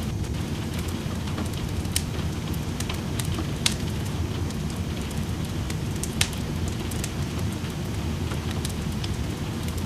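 Steady rain noise, with a wood fire in a fireplace crackling over it in scattered sharp pops, the loudest about two, three and a half, and six seconds in.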